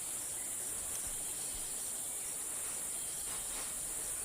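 Steady, high-pitched chorus of calling insects in a tropical rainforest at dusk.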